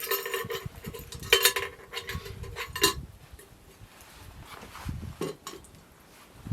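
Metal camp cookware clinking and ringing as it is handled, several sharp knocks in the first three seconds with a ringing tone behind them, then softer scattered handling sounds.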